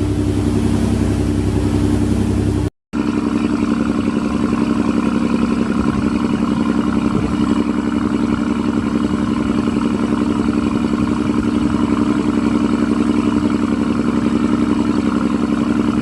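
Riverboat engine running at a steady drone, cut off by a brief dropout about three seconds in and then running on.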